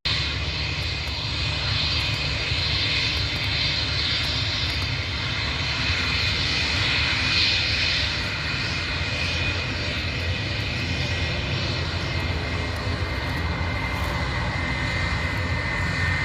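An airliner's engines running at the airport, a steady loud rushing noise with a faint high whine that grows clearer near the end.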